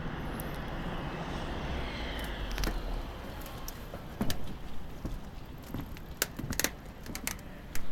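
A steady rushing noise, as of a vehicle going by, that fades about three seconds in, followed by a scatter of sharp clicks and knocks.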